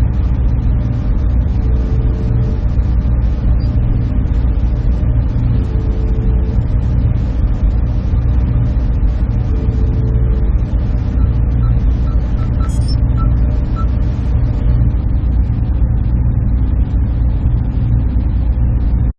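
Server room machinery giving a steady low drone and rumble, with a few faint hum tones on top. A few faint short tones sound about halfway through.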